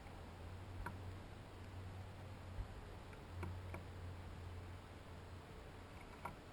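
Faint, scattered sharp ticks, about five over several seconds, over a low steady hum.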